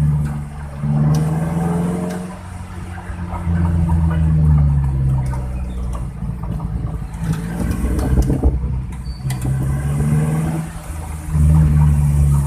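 Suzuki Carry engine running with a deep, bus-like snoring exhaust note, its pitch rising and falling several times as the revs change.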